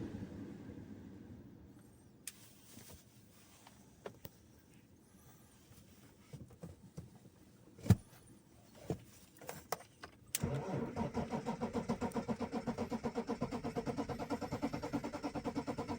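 Mostly quiet with scattered clicks and one sharp knock, then about ten seconds in the starter begins cranking the 1998 BMW 525tds's M51 2.5-litre straight-six turbodiesel in a slow, even rhythm of about four to five pulses a second without it catching. This is a long cold crank at -19°C, which the owner puts down to weak glow plugs.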